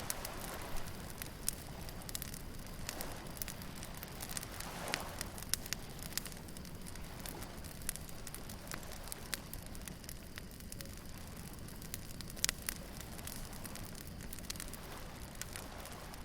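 Beach bonfire crackling, with irregular sharp pops of burning wood, the loudest about twelve seconds in, over a steady low rumble and soft wash of waves.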